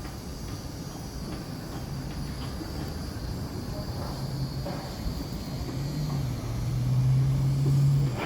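Heavy construction machinery rumbling, with a low engine drone that comes in faintly about two seconds in, grows louder from about six seconds and cuts off abruptly just before the end.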